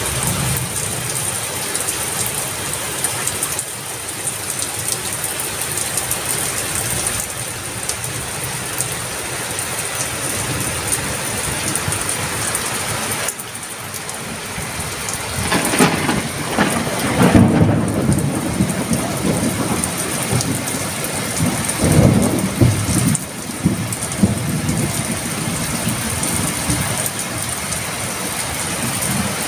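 Rain falling steadily, with thunder rumbling about halfway through and a second shorter rumble a few seconds later.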